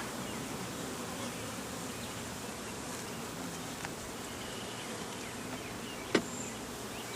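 Honeybees buzzing steadily around an open hive. A single sharp click about six seconds in.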